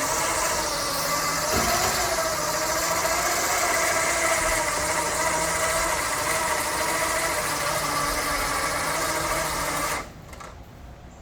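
A motor running steadily with a slightly wavering whine, stopping abruptly about ten seconds in.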